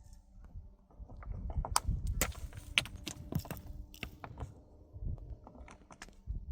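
Irregular sharp knocks and clacks of hard objects striking one another, coming thick and fast in the middle and thinning out toward the end.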